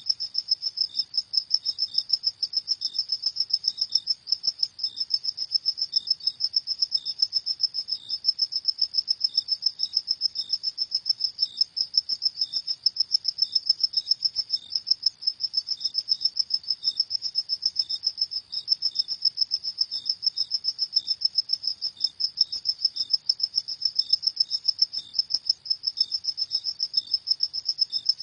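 Crickets chirping in a fast, even, high-pitched pulse that goes on without a break, with a second, slower chirp just beneath it.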